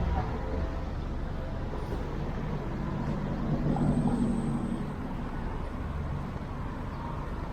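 Road traffic: motor vehicles running close by in a steady low rumble, with one vehicle growing louder and passing about four seconds in.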